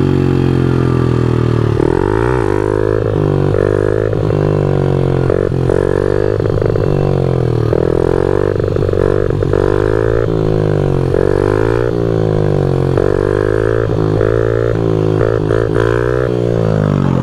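Small single-cylinder four-stroke pit bike engine being ridden, its pitch rising and falling every second or two as the throttle is opened and closed.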